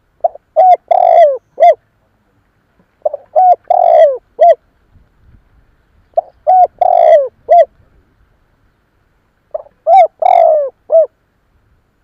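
Spotted dove cooing: four phrases about three seconds apart, each a few short coos, a longer drawn-out coo and a short final coo. It is the decoy call that provokes wild spotted doves.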